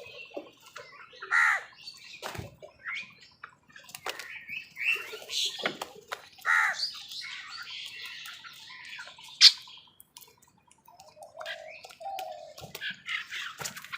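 Crows calling amid the chirping of other birds as they squabble over food, with several loud calls about one and a half and six and a half seconds in and a sharp high call, the loudest, about nine and a half seconds in.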